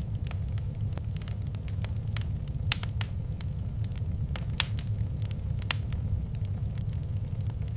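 Wood fire crackling in a fireplace, with irregular sharp pops, a few louder than the rest, over a steady low rumble.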